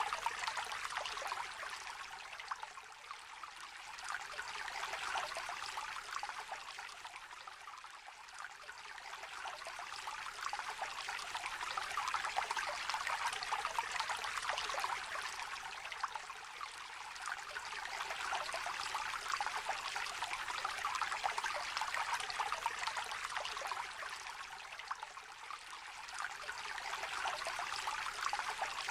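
A small, shallow river trickling and babbling over stones, a steady patter of water that swells and eases every several seconds.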